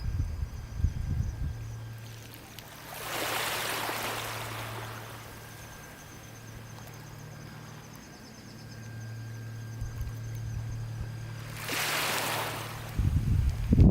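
Sea waves washing onto the shore, two swelling rushes of water a little over eight seconds apart, over a low steady hum. Wind buffets the microphone with low rumbles at the start and again near the end.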